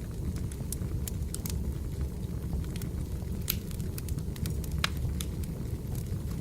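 Firewood logs burning, with irregular sharp crackles and pops over a steady low noise of the flames.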